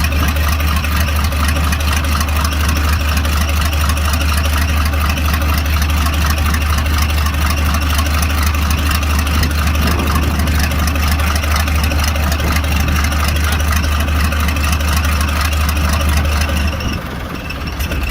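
Preet 987 tractor's diesel engine running steadily at idle with a strong low rumble. Near the end the rumble stops and the sound drops sharply.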